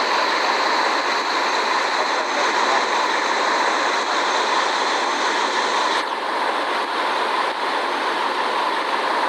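Steady jet and airflow noise inside the cabin of a Boeing 787 airliner. About six seconds in, the highest part of the sound drops away abruptly.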